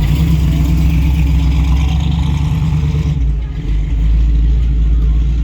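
A loud engine running steadily with a deep rumble; its higher hiss falls away about three seconds in.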